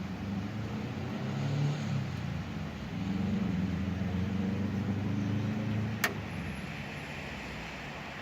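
A vehicle engine running with a low hum that steps up about three seconds in and fades after a single sharp click about six seconds in.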